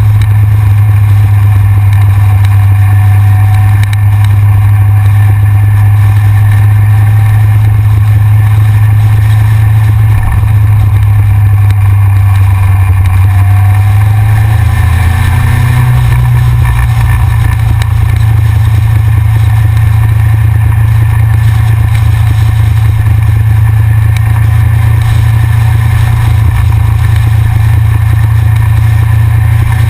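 Yamaha XJR's inline-four engine running steadily on the road, heard from a camera mounted on the front of the bike as a loud, constant low drone. The drone steps up slightly in pitch about halfway through.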